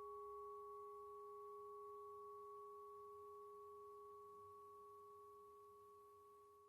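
Singing bowl ringing out after being struck, a faint sustained tone with a few clear overtones, slowly fading away and dying out at the end.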